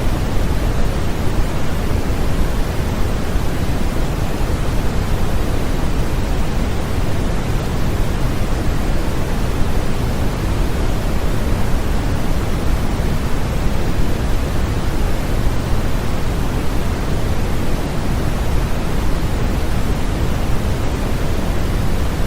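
Continuous synthetic white noise played as a baby sleep aid: a steady, unchanging hiss, heavier in the low end.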